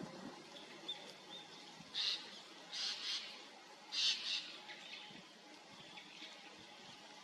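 Wild birds calling outdoors: a few short, high chirping calls, clustered about two, three and four seconds in, over faint outdoor background.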